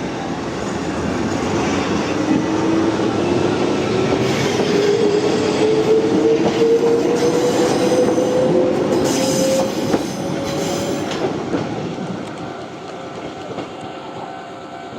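Wakayama Electric Railway 2270 series electric train pulling away, its motor whine rising steadily in pitch as it gathers speed over a running rumble of wheels on rail. It grows louder, then fades near the end.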